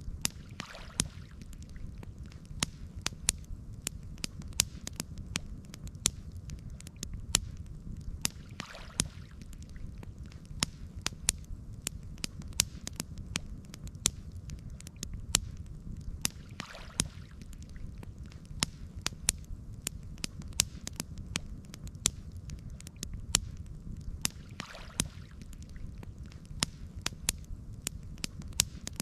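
Campfire crackling: many sharp, irregular pops and snaps over a steady low rumble, with a soft swish about every eight seconds.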